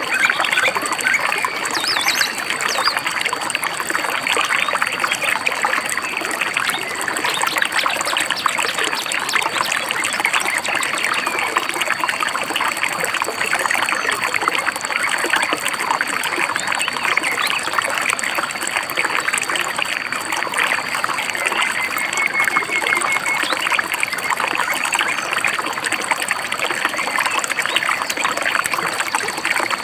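Shallow river babbling and trickling steadily over stones, with a few brief bird chirps above it.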